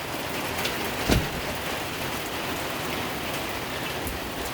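Rain squall falling steadily, with a single sharp knock about a second in.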